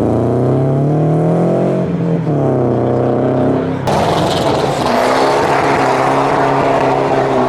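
Car engine revving as a car accelerates away. Its pitch climbs, dips briefly about two seconds in, then climbs again. About four seconds in the sound changes abruptly to a steadier, slowly rising engine note.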